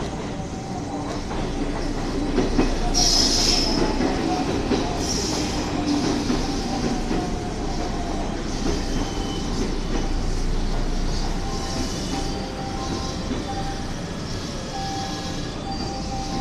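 A Kuroshio limited express electric train pulls into the station and rumbles along the rails. Brief high squeals come about three and five seconds in. The sound eases to a steadier hum as the train slows to a stop.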